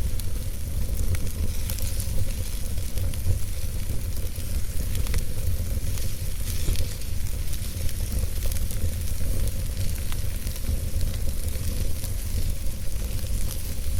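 Campfire burning: a steady hiss with scattered small crackles and pops over a constant low rumble.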